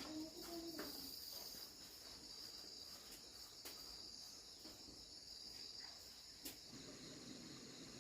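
Faint, steady high-pitched chirring of insects, with a few light clicks.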